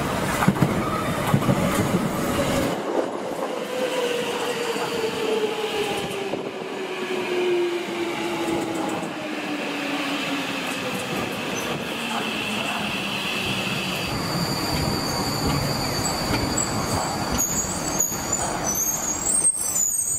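Tokyo Metro 2000 series train pulling into the station and braking, with wheel and rail noise. Its motor whine falls steadily in pitch as it slows, and a higher whine stops about two-thirds of the way through. High brake and wheel squeals come near the end as it comes to a stop.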